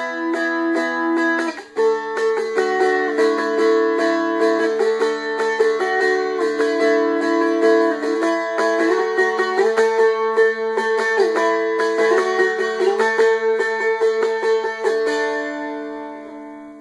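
A Seagull Merlin, a four-string diatonic dulcimer-style instrument, is being strummed: a melody on the top string over steady drone notes, in quick strokes. A final chord rings and fades out near the end.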